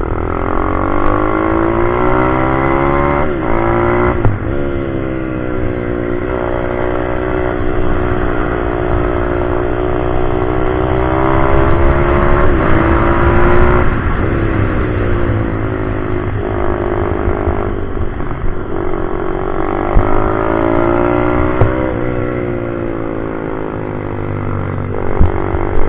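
Pit bike's small single-cylinder engine ridden at speed, revving up and dropping back again and again as it shifts gears and slows for corners, over a low wind rumble.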